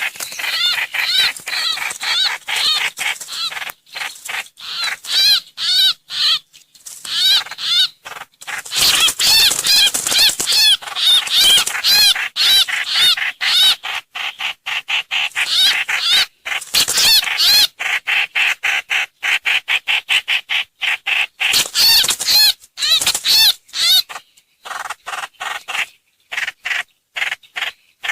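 Trao trảo bird calls played as a trapping lure recording: dense runs of short, high, arching chirps repeated rapidly, broken by brief pauses.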